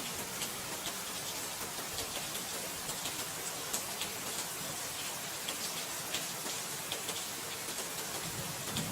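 Steady rain falling, with scattered drops ticking sharply on a hard surface and a soft low swell near the end.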